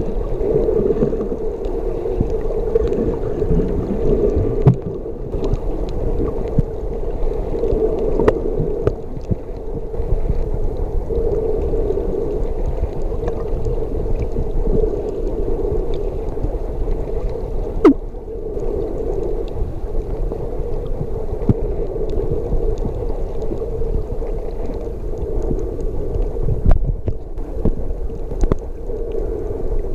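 Muffled underwater ambience picked up through a waterproof camera housing: a steady low rushing of moving seawater with scattered small clicks and knocks, one sharp click about eighteen seconds in.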